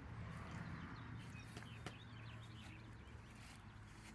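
Faint outdoor ambience: a steady low hum, with a few faint bird chirps and two light clicks about halfway through.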